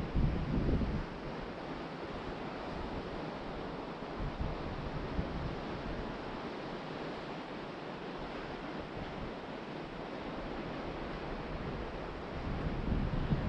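Ocean surf washing steadily onto a beach. Wind buffets the microphone with low rumbling gusts in the first second and again near the end.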